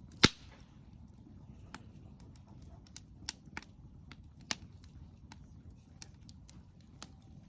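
Campfire wood crackling: one loud sharp pop just after the start, then scattered smaller snaps and cracks over a low steady hiss of the burning fire.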